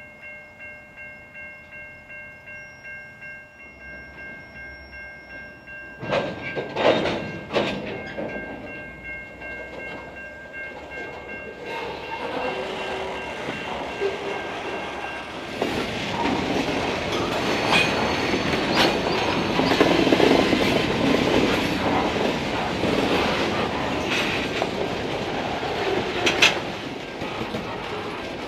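A grade crossing bell rings steadily at about two strokes a second. A few loud clanks come about six to eight seconds in as the stopped freight train's couplers take up slack and it starts to move. Its boxcars then roll past with a clickety-clack and a rumble that grows louder through the second half, with one more sharp clank near the end.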